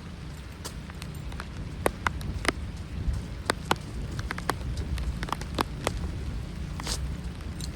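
Hurricane rain falling, with sharp, irregular drop hits close by over a steady low rumble.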